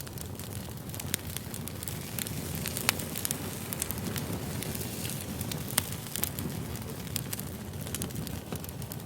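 Wood fire burning: logs crackling with scattered sharp pops over a steady low rumble, the two loudest pops about three and six seconds in.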